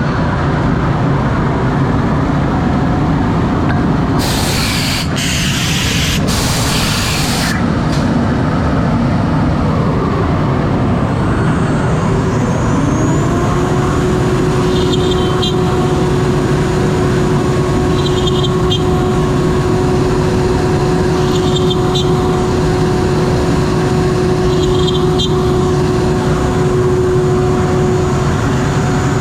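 CNC router running with steady machine and extraction noise. About four seconds in come two bursts of compressed-air hiss. From about twelve seconds the spindle spins up with a rising whine that levels off into a steady tone.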